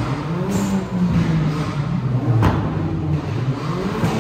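Car engines running, with the revs rising briefly twice. There is a sharp crack about two and a half seconds in.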